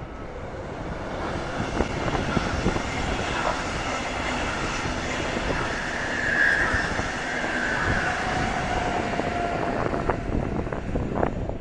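Metronom double-deck regional train passing on the main-line tracks: wheels rumbling and clicking over rail joints and points, growing louder over the first couple of seconds. Brief high wheel squeals sound near the middle.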